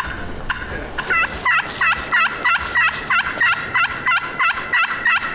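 Wild turkey yelping: a long, fast, evenly spaced series of yelps, about three or four a second, starting about a second in and still going at the end.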